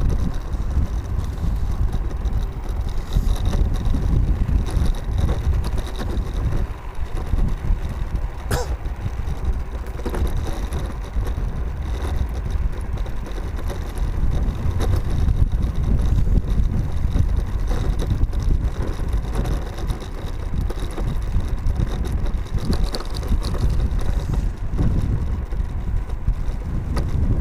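Wind rushing and buffeting over the microphone, mixed with road and tyre rumble, while riding a Mercane electric scooter. One sharp knock comes about eight and a half seconds in.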